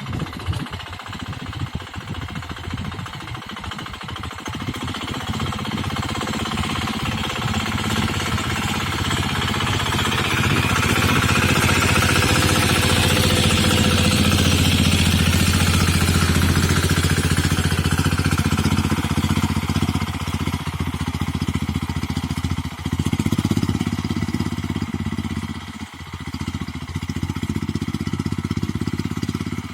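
A sanedo, a homemade mini farm tractor, with its engine running. It grows louder to a peak about midway as it comes close, then eases off, with two brief drops in level near the end.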